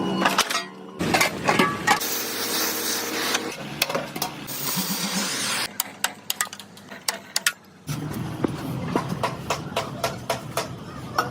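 Quick-cut series of workshop sounds: sharp metal knocks, taps and clinks over stretches of machine hum and hiss, changing abruptly every second or two.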